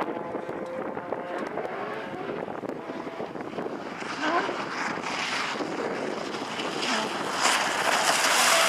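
Porsche rally car engine running on a stage, rising in pitch in short revs, with wind on the microphone; it grows louder near the end.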